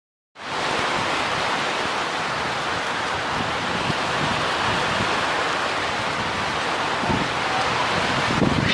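Steady rushing hiss of water, starting abruptly about half a second in and holding even throughout.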